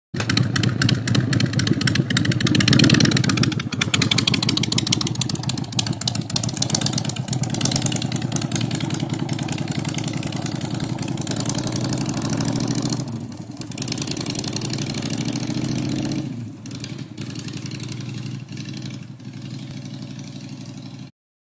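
Motorcycle engine running and revving. It is loudest about three seconds in, drops in steps near the middle and again later, and cuts off abruptly near the end.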